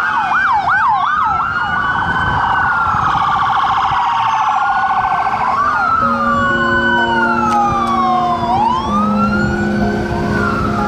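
Several sirens sounding at once and overlapping: a fast yelping siren in the first second, then slow wails rising and falling over a couple of seconds each. From about halfway through, steady low tones that change pitch in steps join in.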